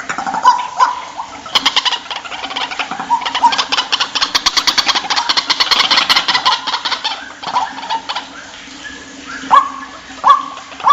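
White-breasted waterhen calling: a few short notes, then several seconds of very rapid, harsh chattering notes, and near the end loud, short, rising croaking notes repeated about once a second.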